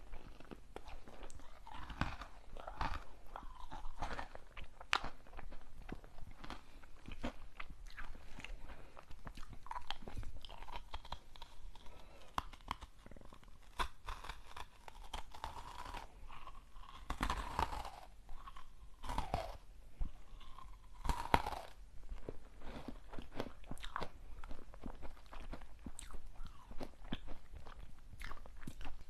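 Close-miked chewing of crunchy sweet snacks: a dense, irregular run of small crisp crunches and bites.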